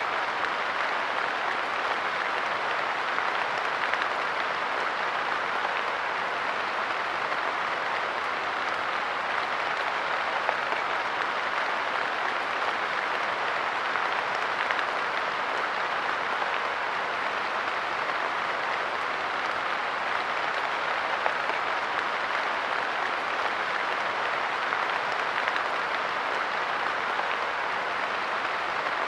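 Light rain pattering steadily on a park bench, a dense even patter of drops with no let-up.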